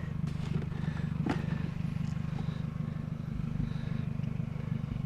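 Steady low rumble of an idling engine, with a faint knock about a second in.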